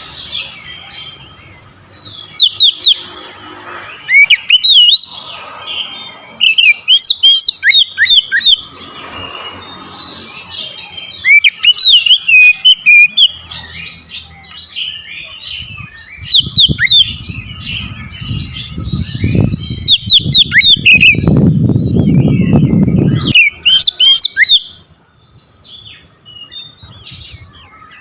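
Oriental magpie-robin (kacer) singing loud, varied phrases of whistles and chirps in repeated bursts. From about halfway to past two-thirds of the way through, a low rumbling noise runs underneath the song.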